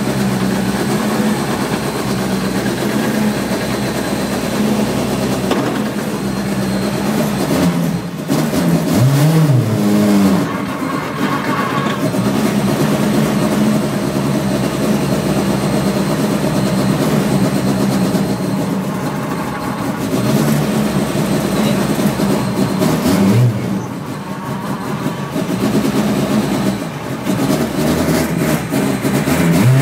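Skoda rally car's engine heard from inside the cabin, running steadily, with short revs up and down about a third of the way in, at about three quarters, and again at the end.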